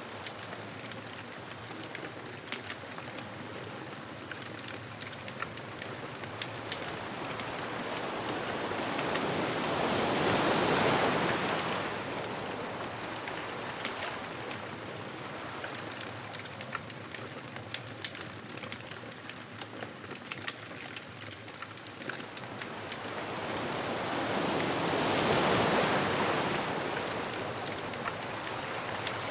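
Ocean waves washing onto a beach: a steady surf hiss that swells twice into a louder breaking wave, about ten seconds in and again near the end, over a light continuous crackle from a beach bonfire.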